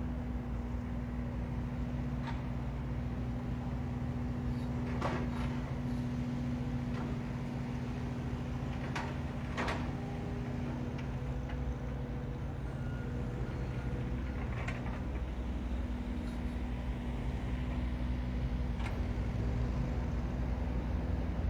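Construction machinery running: a steady engine drone with a held hum, broken by occasional sharp knocks and clanks, about half a dozen in all.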